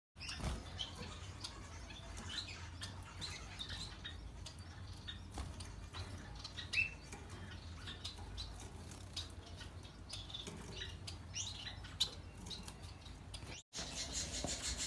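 Finches chirping, with many short high chirps and quick sliding notes, alongside wing flutters and light clicks. A brief break comes near the end, after which the chirping is louder and busier.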